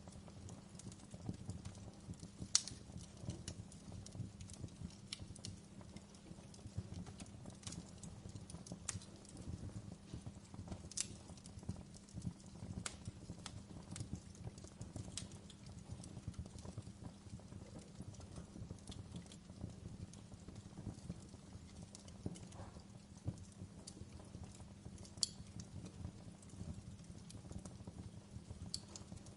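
Wood fire burning in a fireplace: a steady low rumble of flame with frequent small crackles and a few sharper pops.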